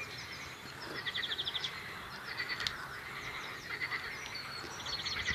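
Small songbirds singing and chirping, with a quick run of about a dozen repeated high notes about a second in.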